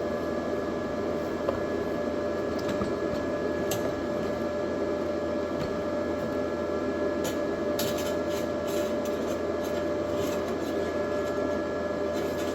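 TIG welding arc running steadily while a metal-bar bumper is welded, a constant hissing buzz with faint crackles and a steady hum.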